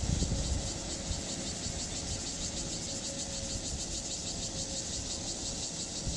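Steady running noise of a rice combine harvester, with a high, fast-pulsing insect buzz over it throughout.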